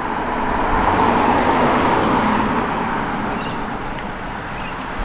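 A car driving slowly past with its engine running, growing louder about a second in and then easing off.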